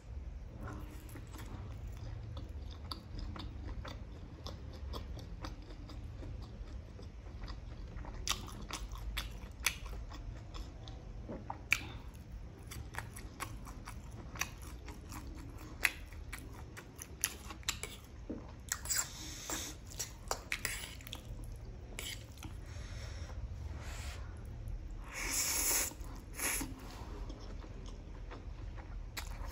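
Close-miked chewing and biting of fried momos and masala Maggi noodles: many sharp, crisp clicks and wet mouth sounds, with a few louder, longer mouth sounds in the last third.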